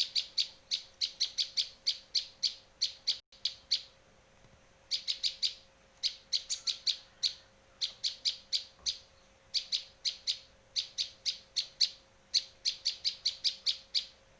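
Bar-winged prinia (prenjak lancur) calling: rapid runs of sharp, high chirps at about five a second, in phrases of a few seconds broken by short pauses, with a faint steady hum underneath.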